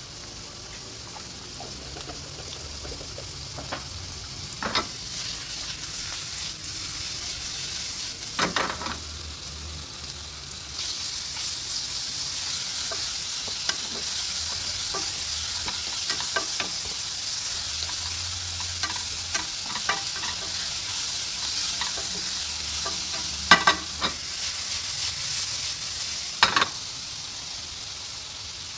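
Fish cake and carrot strips with taucu (fermented soybean paste) sizzling in oil in a non-stick frying pan, stirred with a wooden spatula. The sizzle grows louder about a third of the way in, and the spatula knocks and scrapes against the pan a few times, loudest twice near the end.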